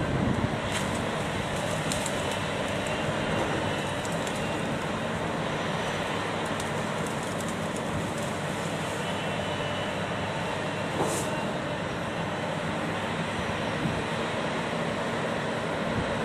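Heavy machine engine running steadily, with a few faint clicks over it.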